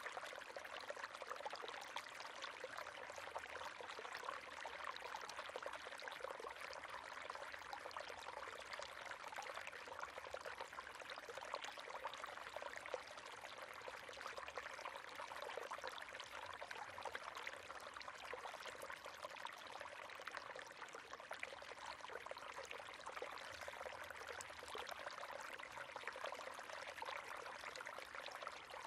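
River water flowing and splashing steadily, a dense, even babble of small splashes with little low rumble.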